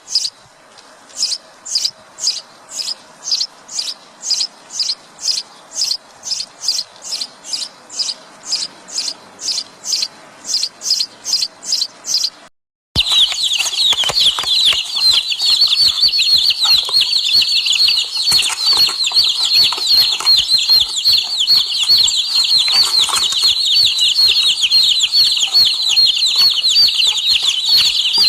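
High chirps repeated evenly about twice a second. About halfway through, a sudden cut leads into a dense, continuous chorus of high chirping calls.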